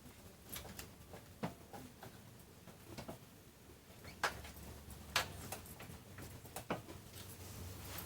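Scattered light clicks and taps, about seven, irregularly spaced, over a low steady hum.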